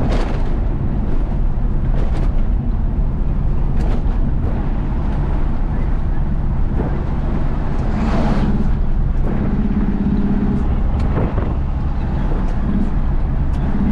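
Isuzu FRR90 truck's diesel engine and road noise: a steady drone while driving along, with a few short knocks and rattles.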